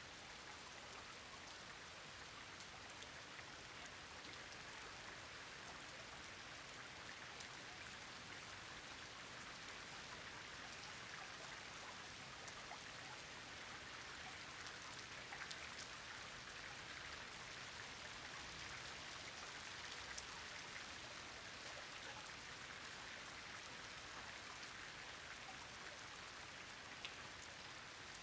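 Steady rain falling: an even hiss with scattered sharper taps of single drops.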